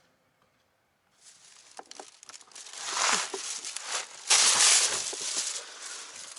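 Rustling, crinkling handling noise with small clicks, starting about a second in and loudest a little past the middle.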